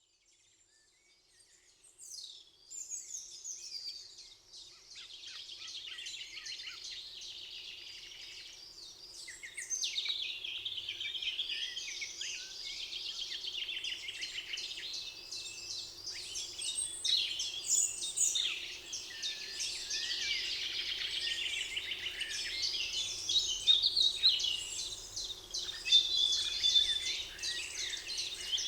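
Many songbirds singing over one another in a forest chorus of quick chirps, trills and whistles, fading in from silence over the first few seconds.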